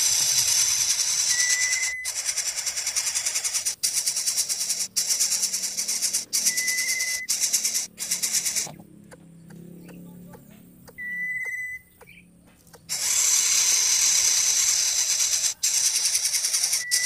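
Loud, high, rapidly pulsing insect buzzing, typical of cicadas, which stops and starts abruptly several times. A short high whistled note sounds every few seconds, four times in all.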